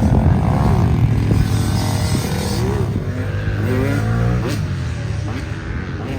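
Dirt bike engine revving up and easing off over and over, its pitch rising in sweeps and dropping back several times, over a heavy low rumble.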